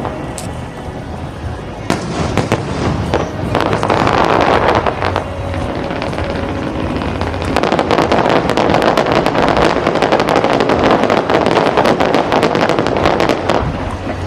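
Aerial fireworks display: a continuous run of bangs and crackling, thickening into a dense stream of crackles in the second half.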